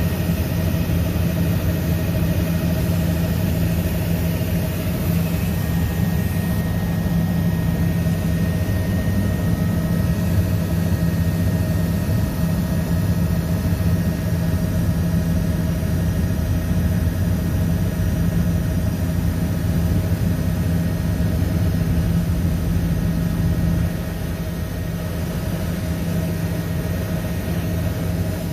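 Helicopter in flight: the steady drone of the engine and rotor, with several constant hums over a rumbling low end. It eases slightly about 24 seconds in.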